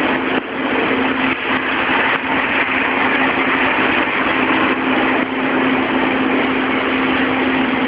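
Engine of construction machinery running steadily, a constant drone with a held hum and no change in speed.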